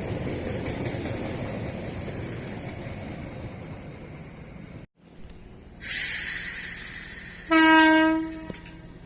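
Train rumbling past and fading away. After a sudden cut comes a loud hiss, then a single train horn blast about a second long.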